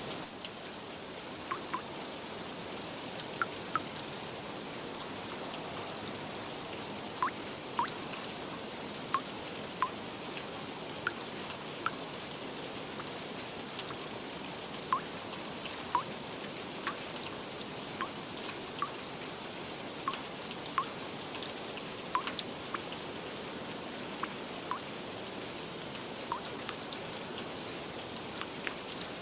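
Steady rain hiss, with single drops plinking irregularly on top, about one a second.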